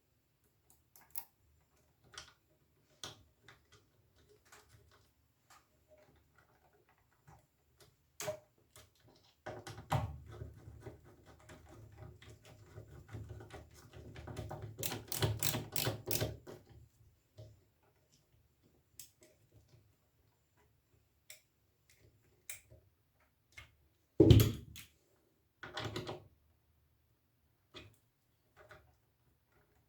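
Small hand tools and metal screws clicking and rattling while screws are fitted and tightened on the filter-capacitor connection bridges. There are scattered single clicks, a dense run of rattling clicks in the middle, and two louder knocks near the end.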